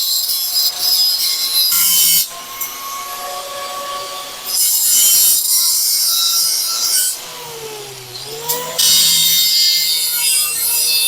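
Angle grinder grinding metal in three passes, with a steady motor whine between them. The whine sags in pitch about seven to eight seconds in and then climbs back.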